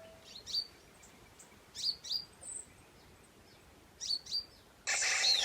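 Small bird chirping: short, sharp, downward-sweeping calls in twos and threes with pauses between them. Near the end, music starts abruptly.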